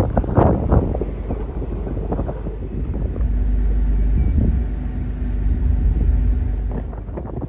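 Wind buffeting the microphone in gusts over a steady low rumble, with a faint steady hum in the middle seconds.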